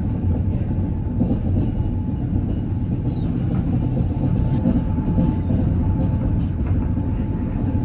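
Gornergrat Bahn electric cogwheel train running: a steady low rumble with a faint, even whine above it.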